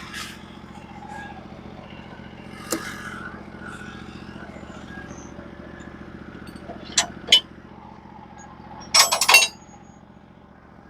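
Portable bandsaw mill's engine idling steadily, with knocks and clanks from the log being turned on the mill bed: a sharp strike about three seconds in, two quick knocks about seven seconds in, and the loudest, a short clatter about nine seconds in.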